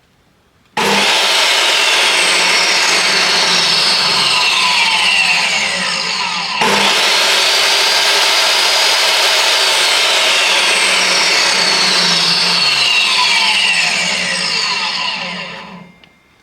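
DeWalt DW745 table saw's universal motor switched on and running at full speed. At about six and a half seconds it sags slightly, then picks back up abruptly. Near the end it winds down. This is a saw whose on switch won't stay latched, which the owner takes for a faulty switch.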